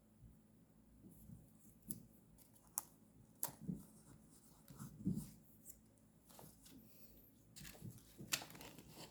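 Faint paper and stationery handling for journal decorating: scattered soft taps and clicks with a few brief rustles of paper, the loudest a little after halfway and near the end.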